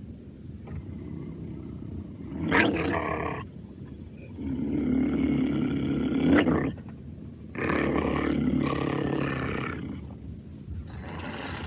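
Edited hamster sound effect: four drawn-out, roar-like calls, the longest about two seconds, over a steady low rumble.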